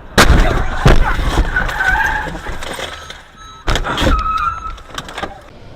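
Car crash: loud sudden impacts, a pair near the start and another about three and a half seconds in, each followed by a brief high-pitched wavering sound.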